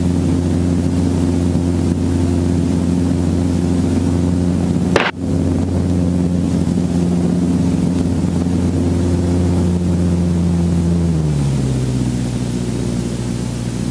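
Helicopter engine and main rotor running steadily on the ground with an even, pitched drone. It drops in pitch about eleven seconds in as the engine is brought down to a lower speed.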